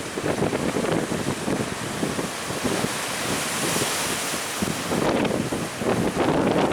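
Strong wind buffeting the microphone over rough sea waves, a dense rushing noise that swells into a brighter hiss a little past the middle.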